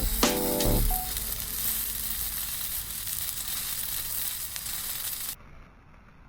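Motsu (offal) sizzling in a skillet: an even frying hiss that cuts off suddenly about five seconds in.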